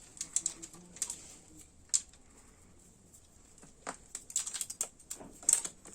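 Scattered light clicks, taps and rustling of hands handling a motorcycle carburettor and tying it up on a cord, with a cluster of sharper knocks near the end.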